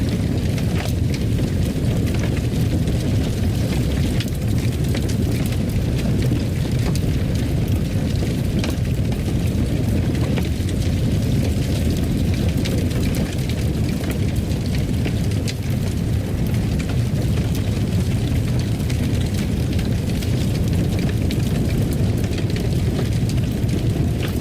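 Wood fire crackling in a fireplace: a steady low rumble of flames with scattered sharp crackles and pops.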